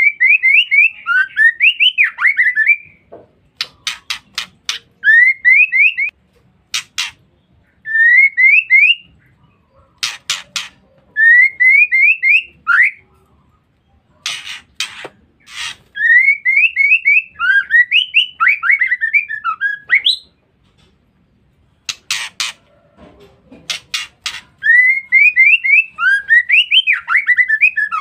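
Female white-rumped shama calling in repeated phrases every few seconds: quick runs of short rising whistled notes mixed with harsh, rasping chatter calls.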